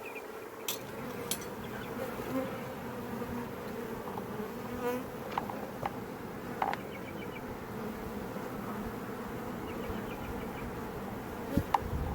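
A hived swarm of honey bees buzzing around an open hive box in a steady hum. A few sharp clicks come through it, with a cluster of louder knocks near the end.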